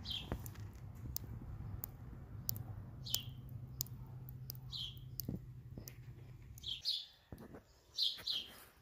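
A bird chirping outdoors: short, high, downward-sliding chirps every second or two, coming closer together near the end. Under them runs a low steady hum that cuts off about seven seconds in, with a few faint clicks.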